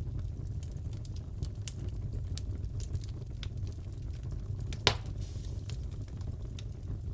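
Crackling wood fire in a fireplace: a steady low rumble with scattered small crackles and one loud pop about five seconds in.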